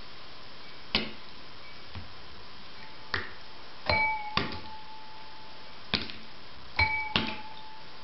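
About seven sharp knocks of a hard object, irregularly spaced, with several followed by a short ringing tone.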